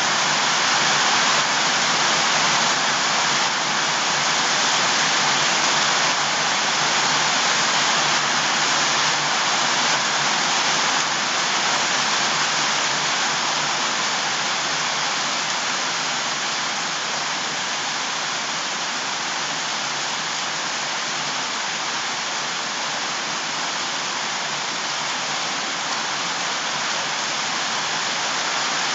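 Steady rush of water, an even hiss with no separate splashes or drops standing out, easing a little in level midway and building again near the end.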